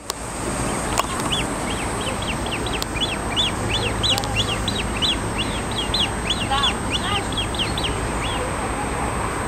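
Bird calling in a quick series of short, high chirps, about three a second, with one lower call about two-thirds of the way through, over a steady background hiss.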